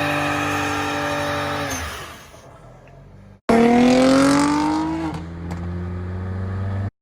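Car engine running at a steady speed, then its note falls and fades. After an abrupt cut, an engine revs up with a rising pitch, drops back to a steady low hum, and stops suddenly.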